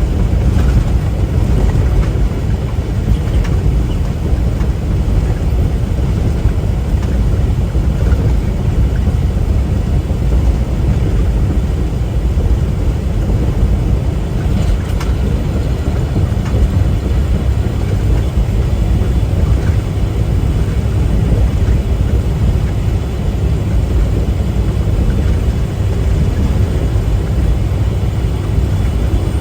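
Steady low rumble of a semi-truck's diesel engine and tyre noise on the road, heard from inside the cab while driving.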